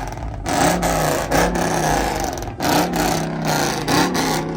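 Car engine revved in repeated short blips, about five surges a second or less apart, settling back between them.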